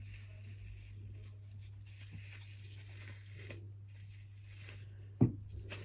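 Faint scraping of a spoon beating softened butter and sugar in a mixing bowl, with one sharp knock about five seconds in, over a steady low hum.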